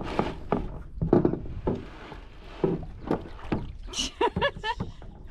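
Irregular knocks and thumps of a paddle and bodies against a canoe hull as paddlers get in and push off, followed about four seconds in by a short wavering high-pitched voice-like sound.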